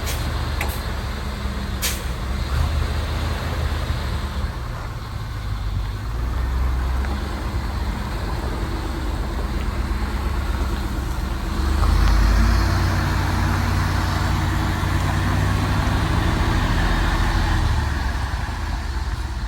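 1994 GMC C7 Topkick truck's engine running, growing louder and fuller from about twelve seconds in, with a sharp click near two seconds.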